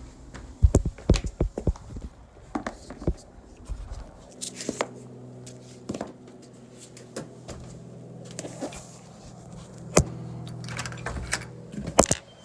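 Knocks and clatter of test instruments and gear being picked up and handled. A steady low hum sets in about four seconds in.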